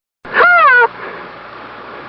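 Rooster crowing: a short call that rises and then falls in pitch, about half a second long, over a faint steady hiss.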